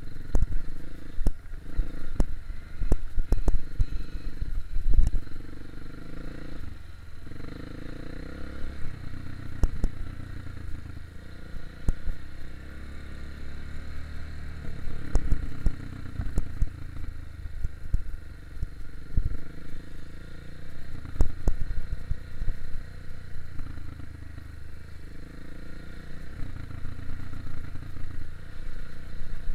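Single-cylinder four-stroke dirt bike engine running over rough trail, its note rising and falling with the throttle, with frequent knocks and rattles from the bike and the ground.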